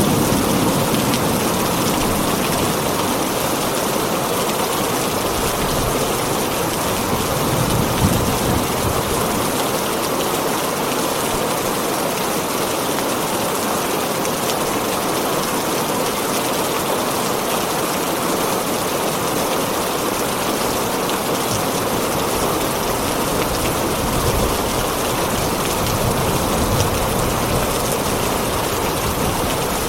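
Heavy rain falling steadily on a tin roof, an even hiss and patter, with the tail of a thunder rumble dying away at the very start.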